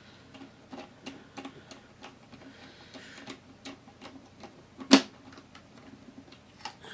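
Light, irregular clicks and taps of small plastic and metal laptop parts being handled and fitted during reassembly, with one sharper, louder click about five seconds in.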